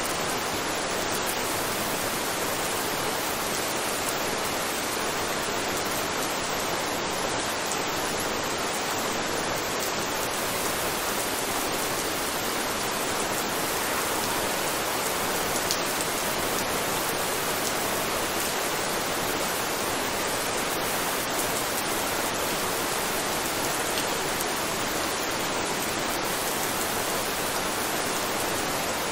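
Steady rain, an even hiss that never changes in level, with a few faint drop ticks.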